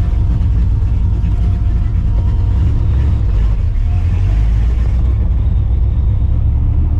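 Straight-piped, Procharged 5.4-litre V8 of a 1999 Mustang GT running at low revs, a loud, steady, deep exhaust rumble as the car moves off slowly.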